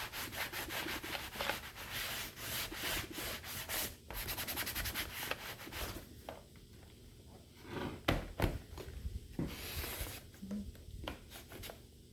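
Quick back-and-forth rubbing strokes, as in scrubbing or wiping a hard surface by hand. They ease off after about six seconds, a sharp knock comes about eight seconds in, and some rubbing returns near the end.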